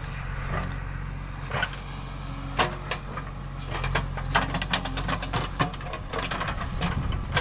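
Backhoe loader's diesel engine running steadily, with a run of sharp clicks and knocks in the middle.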